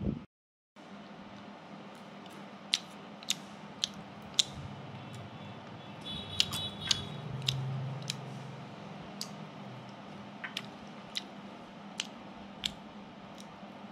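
A person chewing crunchy dried crickets: sharp, scattered crunches every half-second to a second, over a steady faint hum.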